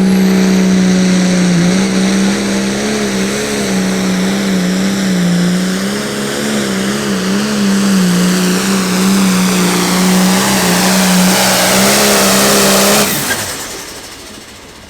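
Turbocharged diesel pulling tractor running flat out under load, its engine note wavering up and down, then cutting off sharply near the end.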